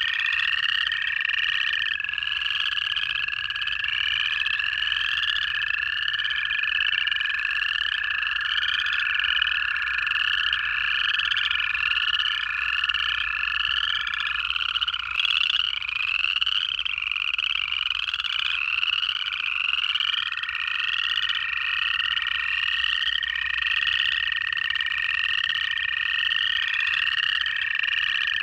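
Dense night chorus of upland chorus frogs, their rising trills repeating over and over. Long steady trills from American toads run underneath, one for most of the first half and others again from about two-thirds of the way in.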